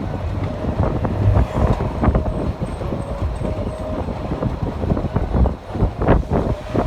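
A bus riding on a rough road, heard from inside: a steady low rumble full of frequent rattles and knocks from the bodywork.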